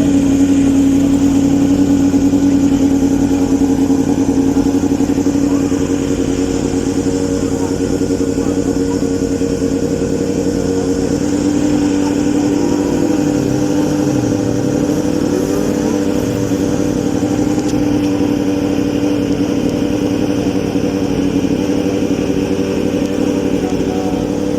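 Steady motor hum with one strong held low tone and a few fainter tones above and below it; the pitch wavers slightly about halfway through.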